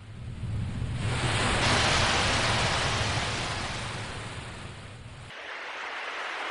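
Sea waves: a wave swells and breaks over a low rumble, then washes back and fades. About five seconds in the rumble cuts off abruptly and a softer, steady hiss of surf carries on.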